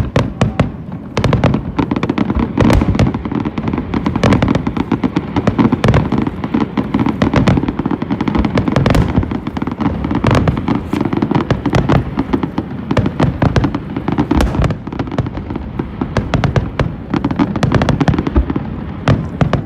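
Aerial fireworks bursting in rapid succession: a dense, continuous barrage of sharp cracks and bangs over a low rumble, many shots a second.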